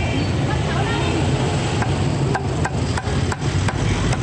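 Cleaver chopping roast meat on a wooden chopping block: a run of sharp chops, about three a second in the second half, over a steady low rumble.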